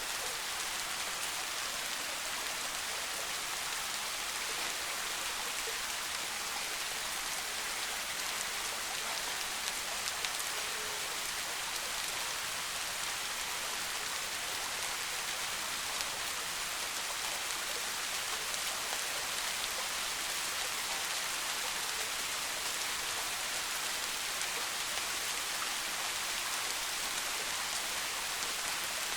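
Steady soft rain falling in a forest, an even hiss with fine, dense patter of drops that does not change.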